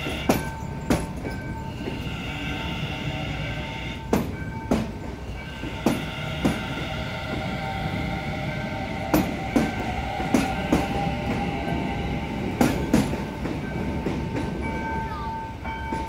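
A commuter train passing over a street level crossing, running with a steady rumble as its wheels clack over the rail joints. The knocks come in pairs, one pair roughly every two seconds as each bogie crosses. The clacking stops a couple of seconds before the end as the last car clears.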